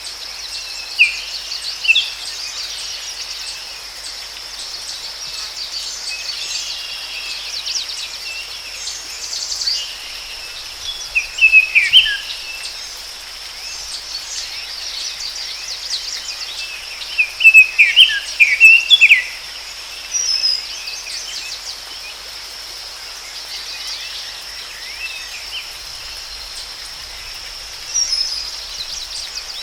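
Forest ambience: a steady high-pitched insect drone, with birds chirping in short clusters of calls, the loudest a few seconds before the middle and again just after it.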